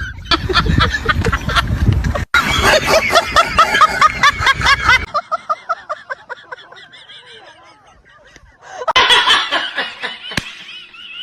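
A person laughing hard in quick repeated bursts, fading out around the middle, then breaking into laughter again near the end.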